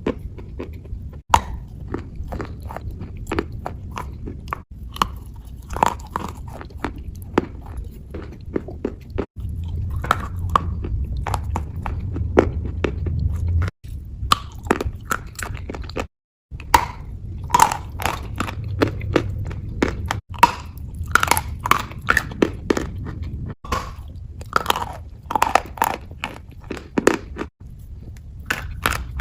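Close-miked ASMR wet crunching: dense crisp crackles and squelchy crunches, as of something crunchy pressed with a paste, in short clips spliced together with abrupt cuts every few seconds and a brief dropout about halfway through.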